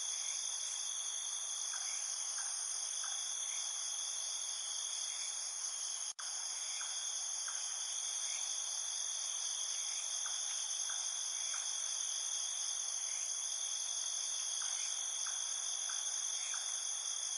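Steady, high-pitched chorus of insects such as crickets, with faint short chirps repeating every half second or so beneath it. The sound cuts out for an instant about six seconds in.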